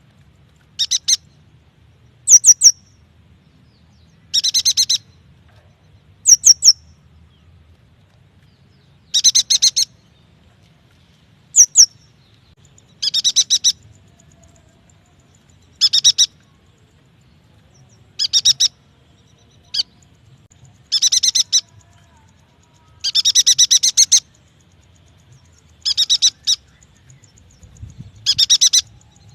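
Yuhina calling: short bursts of rapid high chirping repeated every two to three seconds, some brief two-note chirps and others longer rattling trills lasting up to about a second.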